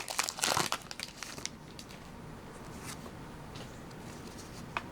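Foil wrapper of a Pokémon booster pack crinkling and tearing for about the first second and a half as the pack is opened, then a few faint clicks from handling.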